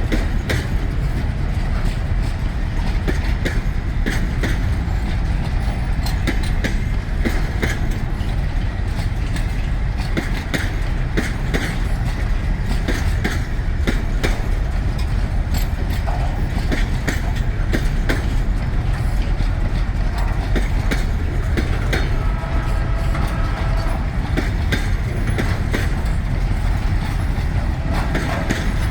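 Long freight train of container flatcars and grain hoppers rolling past: a steady rumble with wheels clicking over rail joints again and again. A brief squeal of wheels comes about two-thirds of the way through.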